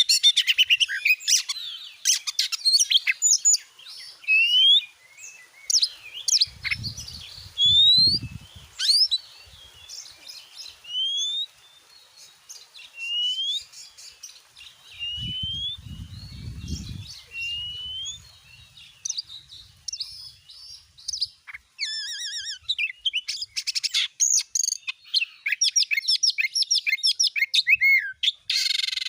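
Oriental magpie-robin (kacer) singing loudly: a string of short rising whistled notes about every second and a half, then fast, dense bursts of varied song near the end. Two brief low rumbles occur under the song early and mid-way.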